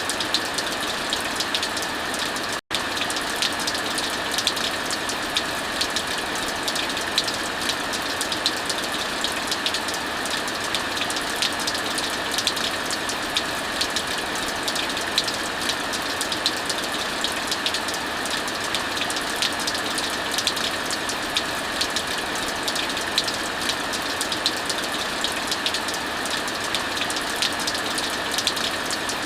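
Steady heavy rain hiss mixed with fireplace crackling, heard as many small pops scattered through the rain. The sound cuts out for an instant about three seconds in.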